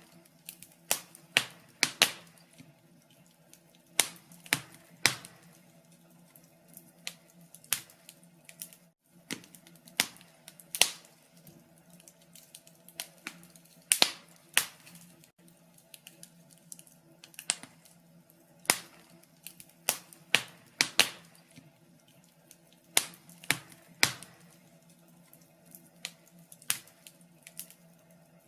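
Wood fire crackling in a fireplace: irregular sharp pops and snaps at uneven intervals, over a faint steady low hum.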